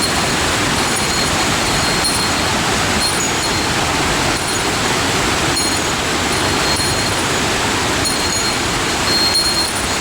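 Steady rush of falling water from a mountain waterfall, with faint short high-pitched notes now and then.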